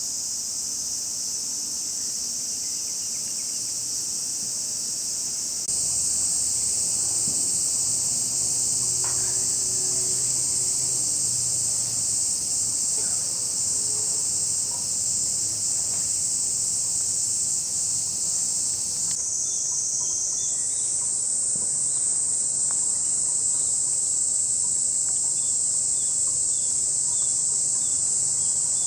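A chorus of summer cicadas shrilling in a steady, loud high-pitched buzz that does not let up. It jumps louder about six seconds in.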